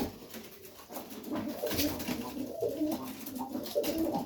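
Domestic highflyer pigeons cooing, several birds overlapping, with a few light clicks among them.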